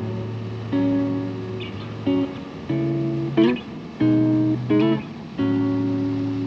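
Background music: strummed acoustic guitar chords, changing every second or so.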